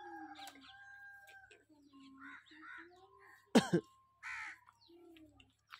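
Several short bird calls resembling crow caws, with one loud, sudden call about three and a half seconds in.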